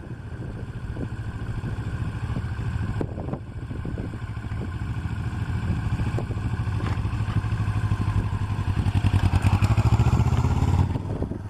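Kawasaki Ninja 650R's parallel-twin engine running as the motorcycle is ridden slowly. It grows louder from about seven seconds in and drops off sharply near the end as it passes close by.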